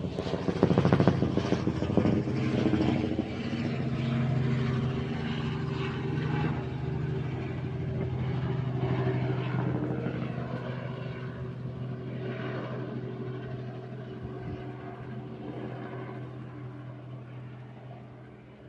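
Helicopter running: a steady drone of rotor and engine that grows gradually fainter.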